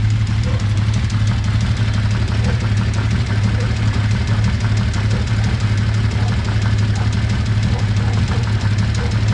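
Kawasaki Z1300 inline-six motorcycle engine idling steadily, with a fast, even ticking over the engine's running sound. The ticking is the unexplained noise being troubleshot.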